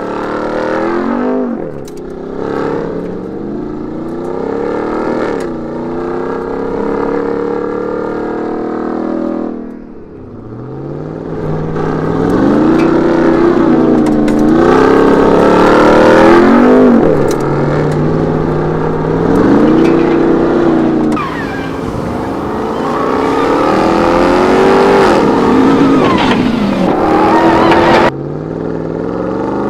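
Supercharged 6.2-litre V8 of a Ram 1500 TRX pickup accelerating hard, its pitch climbing and dropping again and again as it shifts up through the gears. The sound changes abruptly about a third of the way in and again near the end.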